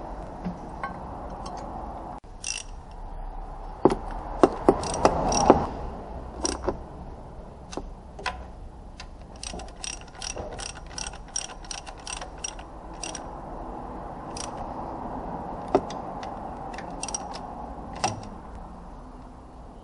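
Hand tools working on metal: irregular sharp clicks and knocks over a low steady hum. The loudest cluster comes about four to six seconds in, followed by a run of roughly two clicks a second.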